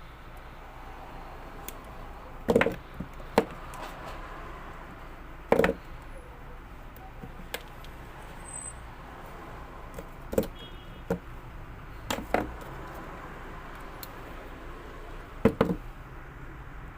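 Scattered knocks and clicks, about seven in all, of hard plastic parts and tools being handled during a vacuum cleaner cable-reel repair, over a steady low background noise.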